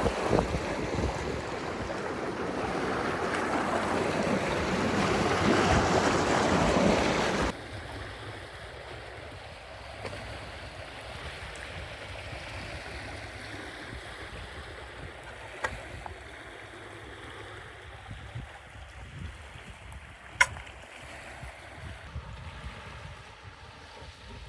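A steady rushing noise of water or wind builds for about seven seconds, then cuts off abruptly. After the cut comes quieter lakeside ambience with a few sharp clicks, the loudest about twenty seconds in.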